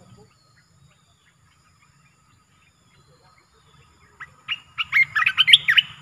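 A bulbul singing a quick run of short, sharp chattering notes. It starts about four seconds in, after a near-silent stretch.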